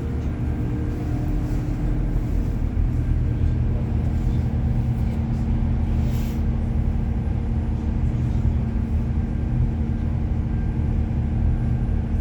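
Passenger boat's engine running steadily under way, a constant low drone with a steady hum.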